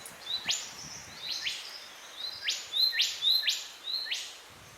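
Rainforest bird calling over and over: a short high note followed by a quick upward-sweeping note, about six times in a few seconds.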